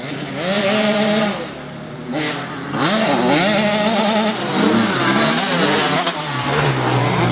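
Motocross bike engine revving, its pitch rising and falling again and again with the throttle.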